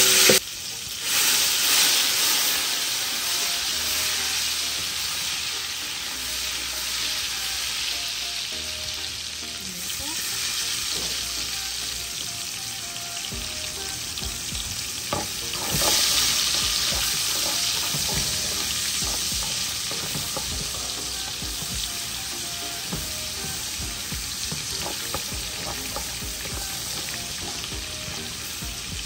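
Green seasoning sizzling as it fries in hot oil in a frying pan while it is stirred, with scattered light scrapes. The sizzle surges louder about a second in and again about halfway through.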